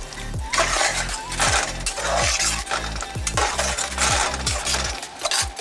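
Spoon scraping and stirring chicken pieces through thick tomato and cream curry sauce in a pan, in repeated short strokes.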